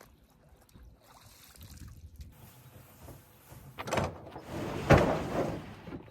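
Camp gear being handled and packed away: a low shuffle, then two loud knocks or clatters about four and five seconds in, the second the loudest.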